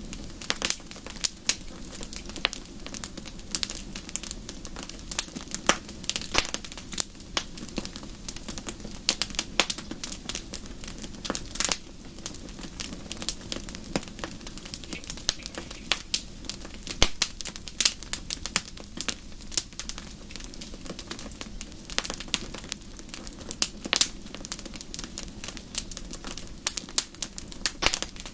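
Wood fire burning in a fireplace, with dense, irregular crackles and pops over a steady low rumble of the flames.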